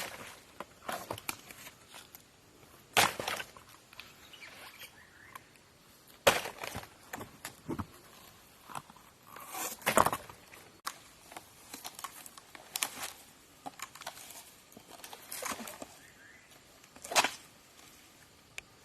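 Irregular sharp knocks every two to three seconds, with softer clicks and rustling between them, as of objects being handled or worked.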